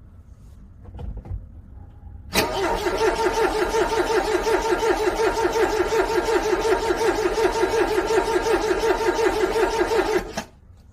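Car engine cranking on its starter in freezing cold for about eight seconds with a steady rhythmic beat of about five pulses a second, then cutting off abruptly without catching: a cold engine that fails to start.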